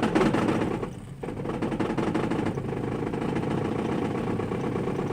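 1987 Toyota 22R-TEC four-cylinder engine running at a steady idle, its level dipping briefly about a second in.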